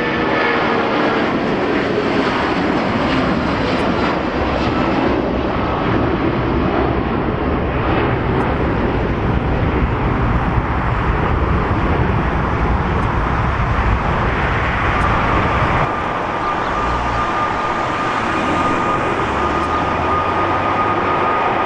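Jet airliner's engines passing close by, a loud steady roar. A whine falls in pitch at the very start, and a steady high whine comes in about fifteen seconds in.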